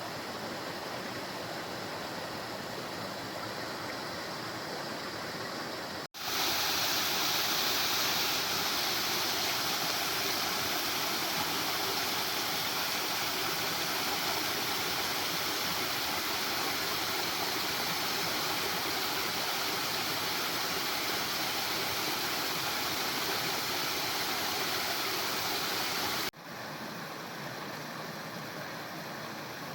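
Rushing water of a waterfall, a steady even rush. It cuts off abruptly about six seconds in to a louder, brighter stretch of the same rush, which cuts back to the quieter sound a few seconds before the end.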